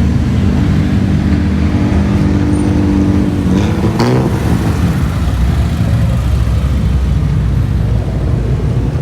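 Car engines running as cars move slowly past at low speed, with one engine's pitch sweeping briefly about four seconds in.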